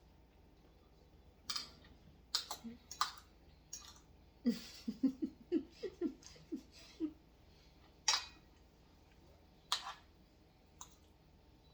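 Eating noises at the table: sharp mouth smacks and clicks scattered through, with a short run of giggling a few seconds in.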